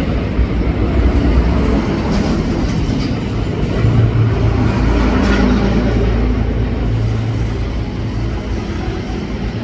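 Engine running steadily: a loud, low rumble with a steady hum.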